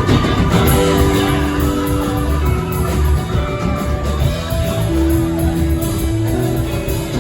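Live rock band playing an instrumental jam: guitar holding long sustained notes over bass and drums.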